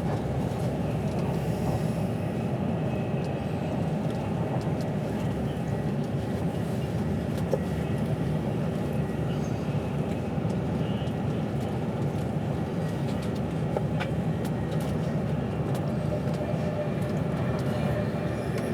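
Steady running noise of a moving passenger train heard from inside the carriage: an even low rumble of wheels on rails, with a few faint clicks scattered through it.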